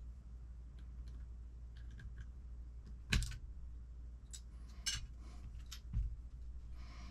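Small hand tools and parts clicking and tapping during hand assembly of an RC truck transmission. The sharpest click comes about three seconds in, with lighter ones near five and six seconds, over a steady low hum.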